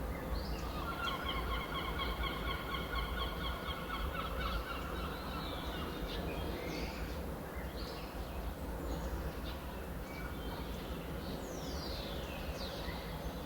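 Birds calling: a rapid run of repeated notes lasting about four seconds near the start, then scattered chirps and a falling whistle near the end, over a steady low rumble.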